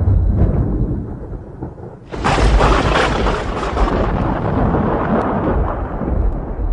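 Thunder during a rainstorm: a low rumble fades away, then a sharp clap about two seconds in rolls into a long, dying rumble.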